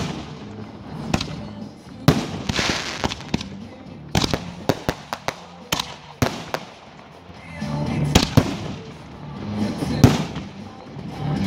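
Aerial fireworks bursting overhead: a string of sharp bangs and pops, with a quick run of them in the middle. Music plays underneath in the second half.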